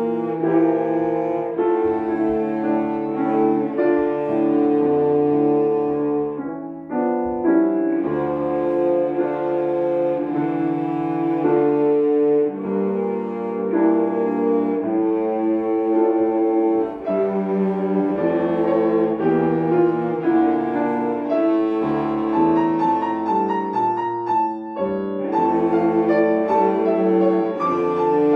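Three cellos playing together with piano accompaniment, a classical piece in sustained bowed notes.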